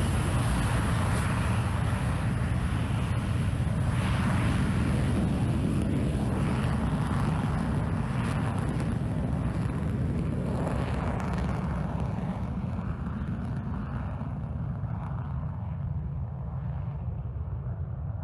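Boeing 727's three Pratt & Whitney JT8D turbofan engines: loud, steady jet noise with a deep low end. Near the end the high hiss fades away and the sound grows slightly quieter.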